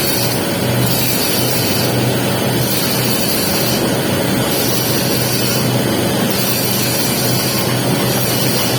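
Steady hiss and crackle of a welding arc laying the capping pass on a pipe joint, over a steady low hum.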